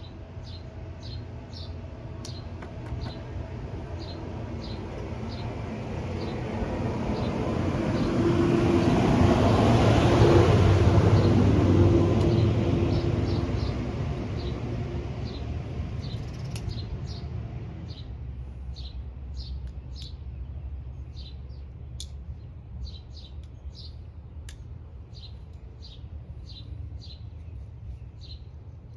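A vehicle passing by, swelling to its loudest about ten seconds in and then fading. Throughout, a bird chirps over and over in short, high notes.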